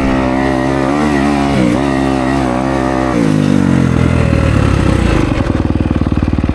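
Kawasaki KX250X dirt bike engine running at steady mid revs with small throttle blips. About three seconds in it drops off the throttle, the revs fall, and it settles into a low, chugging pulse.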